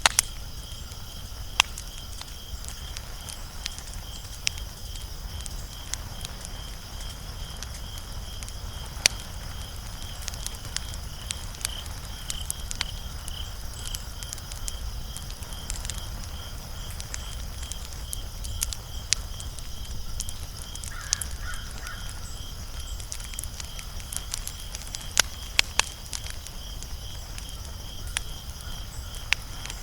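Wood fire crackling with sharp, irregular pops, over a steady, pulsing high-pitched chirping.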